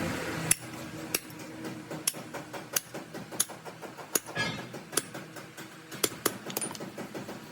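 Light metallic taps and clicks, irregular at roughly one or two a second, with a brief scrape near the middle, over a faint steady machine hum.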